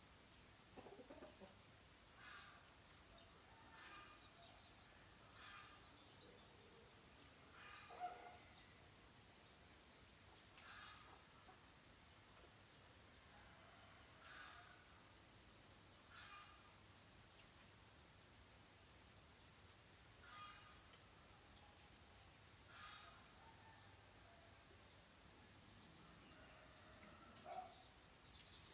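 Insects chirping: a steady high-pitched drone with bouts of fast pulses, about five a second, that start and stop every few seconds. Faint short calls sound lower down now and then.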